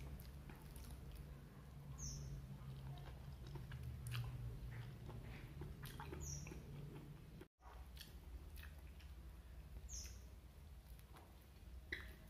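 A person chewing a mouthful of food eaten by hand, with faint small clicks over a steady low hum; the sound cuts out completely for an instant about halfway through.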